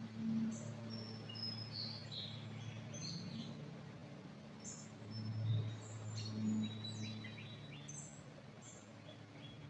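Forest birds giving scattered short, high chirps and whistles, over a low steady hum that swells about half a second in and again around five and a half seconds in.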